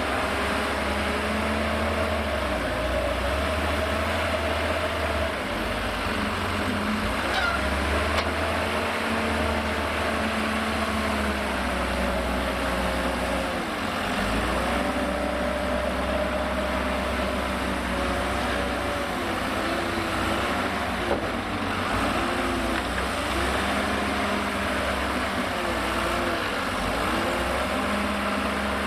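Diesel engine of a Liebherr L534 wheel loader working through a loading cycle, its engine speed repeatedly dipping and recovering as it digs, reverses and lifts. A couple of short clicks are heard, one early and one past the middle.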